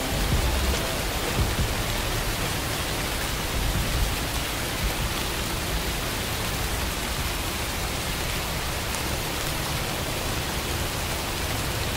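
Steady rain: an even, dense hiss of falling rain, with a brief low rumble in the first second.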